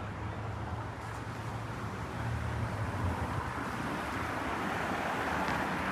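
Steady road traffic noise with a low engine hum, getting a little louder about two seconds in.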